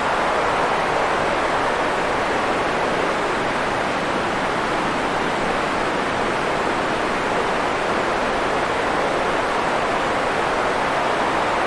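Steady, unchanging white-noise sleep sound: an even rush strongest in the middle pitches, with little deep rumble or high hiss.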